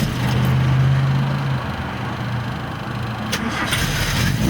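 Car engine idling with a steady low hum, which drops in level about a second and a half in.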